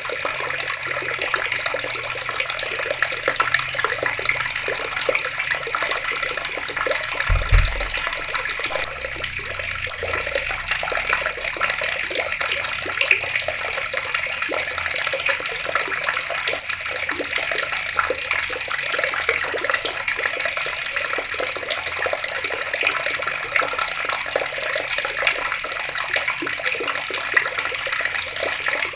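Outdoor water tap running steadily, the stream splashing as it falls. A brief low thump sounds about a quarter of the way in.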